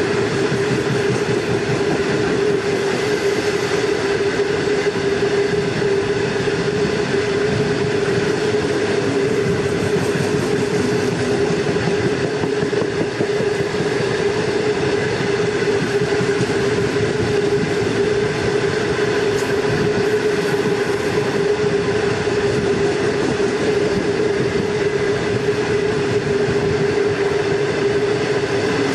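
Long freight train rolling steadily along the track, heard from on board: a continuous running noise of wheels on rails with a steady hum.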